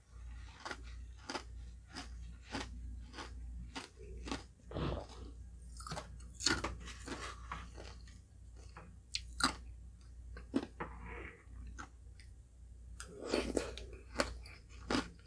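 Close-miked chewing of a halo-halo shaved-ice dessert: irregular crunching and wet mouth clicks as spoonfuls of ice, ice cream and sweet beans are eaten.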